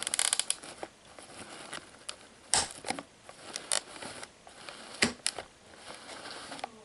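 Snake shipping packaging being handled and opened by hand: crinkling and rustling with sharp clicks and knocks, a burst of crackling at the start and the loudest knocks about two and a half and five seconds in.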